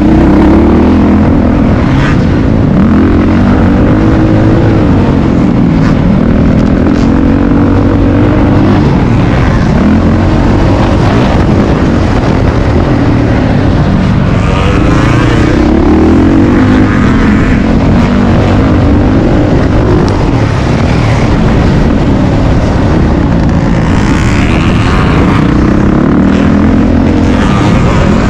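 Dirt bike engine revving up and falling back again and again as the bike is ridden around a motocross track, loud and continuous.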